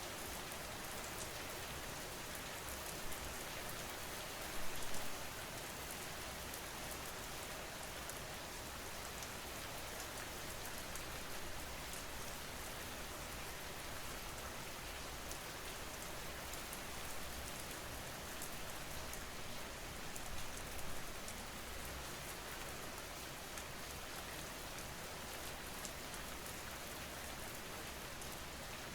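Steady rain falling, an even hiss of drops, with a few brief louder spells.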